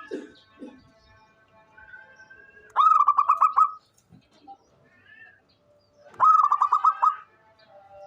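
Zebra dove (perkutut) cooing: two calls about three seconds apart, each a quick run of short, rapid notes lasting about a second.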